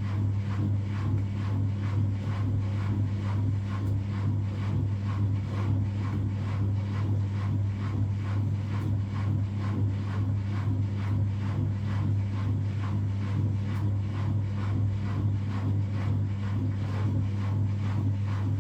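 Washing machine running, a steady hum with a faint even pulse about three times a second.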